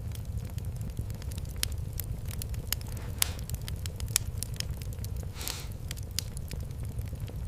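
Wood fire in a fireplace crackling, with frequent sharp pops over a steady low rumble. Twice a short hiss rises out of it.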